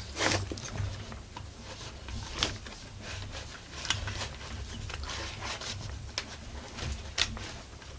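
Thick copper wire being pushed and packed into a Husqvarna 44 chainsaw's spark plug hole to block the piston: irregular small scrapes and clicks of wire against metal.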